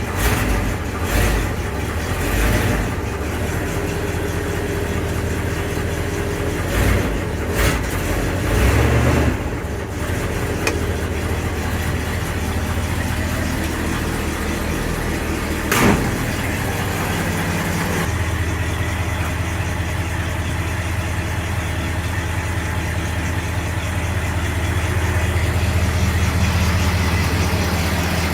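Truck V8 engine idling through a Walker SoundFX universal muffler, a steady, fairly mild exhaust note. A few sharp knocks sound in the first ten seconds and a single click about halfway through, and the idle grows a little fuller near the middle. A slight knock from the engine is there, which the owner can't place.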